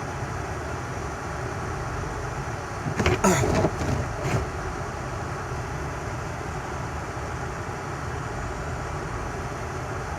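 Steady rumble and hiss inside a car cabin during a snowstorm. A short cluster of sharper sounds with a falling pitch comes a little after three seconds in.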